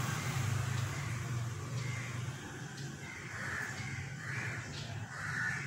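Several short, harsh bird calls from about two seconds in, over a low steady hum.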